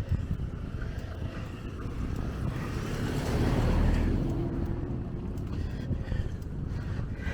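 A motor vehicle passing on the road, its noise swelling to a peak about three to four seconds in and then fading, over a steady low rumble of wind on the microphone from riding a bicycle.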